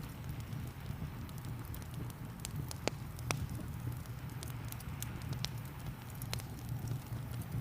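Wood fire crackling, with a dozen or so sharp pops at irregular intervals, over a steady low rumble and the even hiss of rain.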